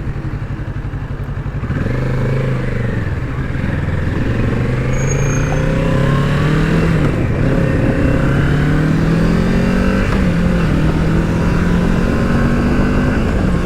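Kawasaki Z650's parallel-twin engine running low for about two seconds, then accelerating, its pitch rising and dropping back several times as it shifts up through the gears.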